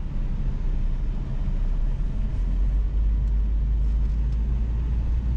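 Car engine and road noise while driving slowly: a steady low rumble.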